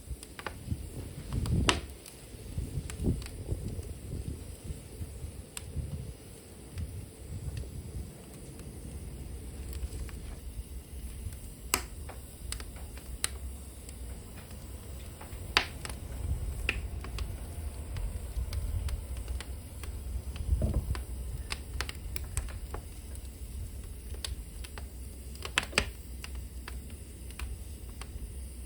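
Wood fire burning in a fireplace, crackling with sharp pops a few seconds apart over a low steady rumble of the flames.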